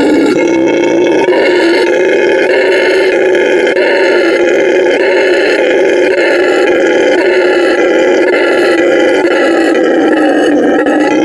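A wild animal roaring loudly and without a break, with a slight regular pulsing.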